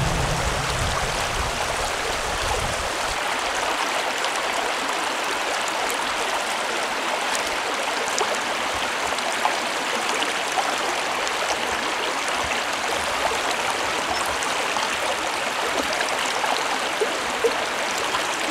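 Small creek running steadily over its bed, a constant rushing of water with a few faint ticks.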